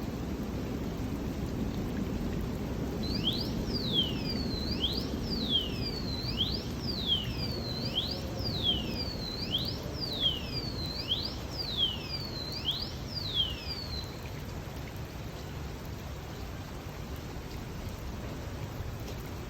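Steady rain hiss. From about three seconds in to about fourteen, a bird calls over it in a quick series of more than a dozen sharp whistled notes, each sweeping up and then dropping.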